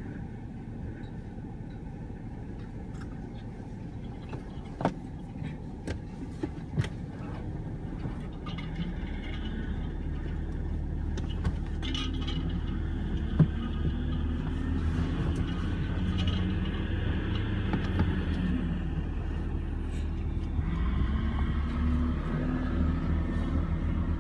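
Refuse truck engine running and growing louder from about eight seconds in, its pitch rising and falling, with a few sharp metallic clicks and clanks in the first seven seconds.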